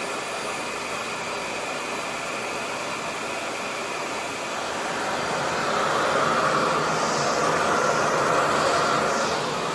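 Revair reverse-air hair dryer running at its highest airflow setting, a steady rushing suction that draws the hair into its wand. It grows louder about five seconds in and eases slightly near the end.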